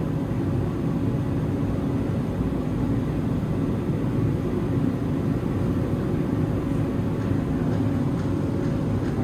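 Truck engine running steadily at an even speed: a dense low rumble with a faint constant tone, no revving.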